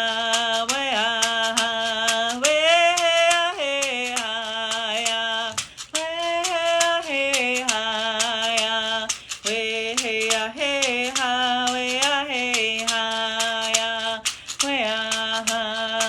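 One voice singing held, sliding vocable notes of a Native song, over a quick steady percussion beat.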